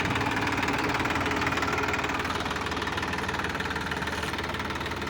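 Sonalika tractor's diesel engine running steadily with a rapid, even firing beat, getting slightly quieter toward the end.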